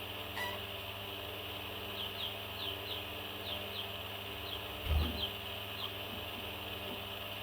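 Parrot giving short, high, falling chirps, mostly in pairs, over a steady hiss, with a soft low thump about five seconds in.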